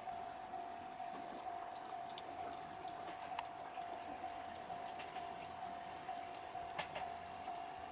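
Rain dripping and pattering, with scattered light ticks of drops over a faint steady hum.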